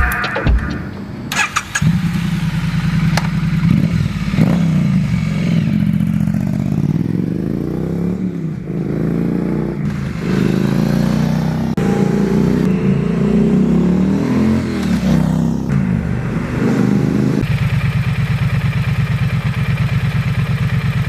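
Triumph motorcycle engine running through an aftermarket exhaust, revved up and down several times, then settling to a steady idle in the last few seconds.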